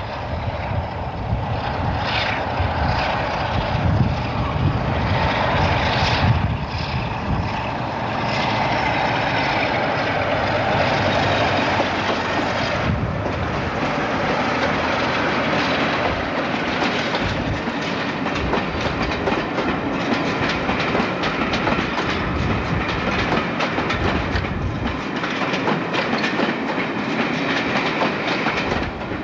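British Rail Class 47 diesel locomotive and its coaches running past, the coach wheels clattering over rail joints, with a change in the sound about halfway through.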